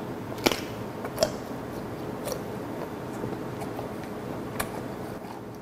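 Close-up chewing of bone-in raw gizzard shad (jeoneo) sashimi, wet mastication with four sharp crunchy clicks as the small bones are bitten through.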